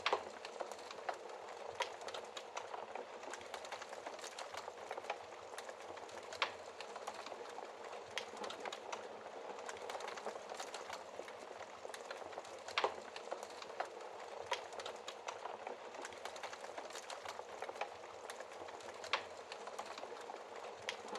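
Wood fire burning in a fireplace: a steady crackling hiss with many small pops, and a few louder snaps spaced several seconds apart.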